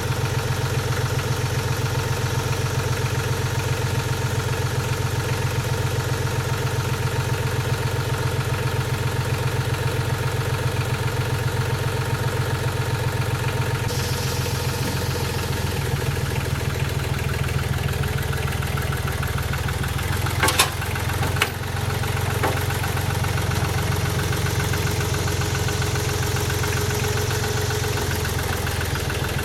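An engine idling steadily, its pitch shifting slightly about halfway through, with two sharp knocks about a second apart near two-thirds of the way in.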